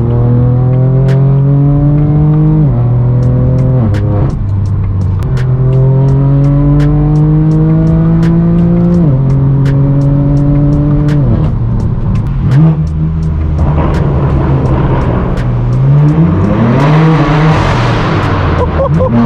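Straight-piped BMW M4 F82's twin-turbo inline-six accelerating hard through the gears: the exhaust note rises in pitch and drops sharply at each upshift, several times over. Near the end there is a quick rise and fall in revs with a rush of noise.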